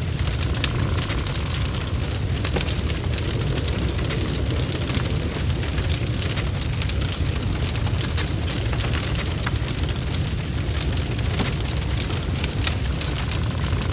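Wood fire (bonfire) crackling, with many sharp pops and snaps over a steady low rumble of flames.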